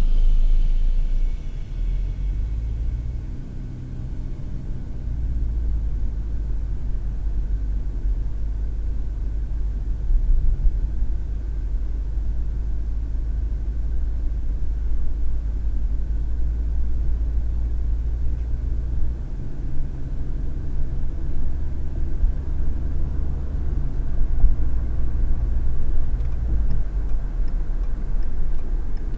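Steady low road and engine rumble of a car being driven, heard from inside the cabin through a dash cam microphone; the rumble eases a couple of seconds in and shifts again about twenty seconds in. A faint regular ticking begins near the end.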